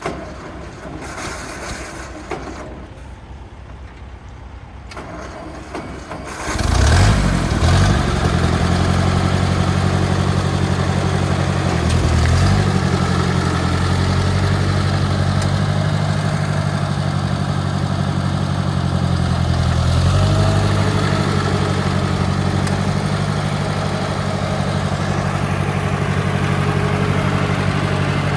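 Ford 640 tractor's four-cylinder engine catching about six and a half seconds in, then running steadily, with brief changes in engine speed around twelve and twenty seconds in.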